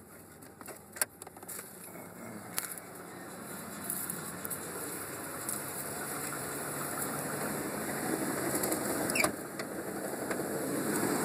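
1991 Ford Explorer's 4.0-litre V6 running just after a cold start, having sat unstarted for a month or more; the sound grows steadily louder, with a few sharp clicks along the way.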